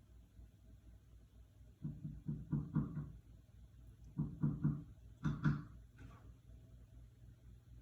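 Pileated woodpecker chiselling into wood: hollow knocks in short volleys, about five strikes, then three, then two, a few strikes a second.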